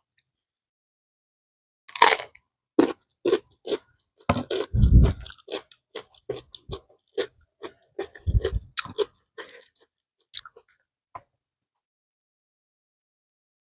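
Close-miked biting and chewing of a raw mustard green stalk dipped in sambal: a sharp crisp bite about two seconds in, then a quick run of wet crunches that thins out near the end, with a couple of dull thumps along the way.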